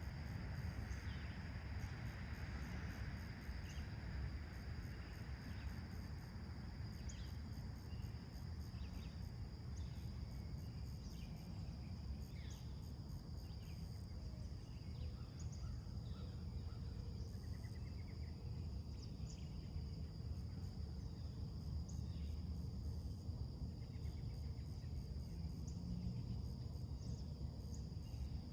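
Late-summer dawn chorus of crickets and other insects, a steady high drone with fast pulsing on top, with short bird chirps scattered through it over a steady low rumble.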